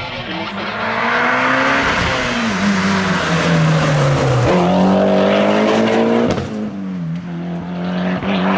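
Mitsubishi Lancer Evolution X rally car's turbocharged four-cylinder engine driven hard, the revs climbing and then dropping sharply several times as it changes gear and lifts for corners.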